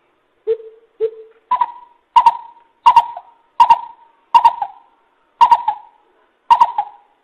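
Coucal (bìm bịp) hooting, a lure call for trapping: a series of about nine hooting notes, evenly spaced less than a second apart. The first two are lower and softer; the rest are higher and louder.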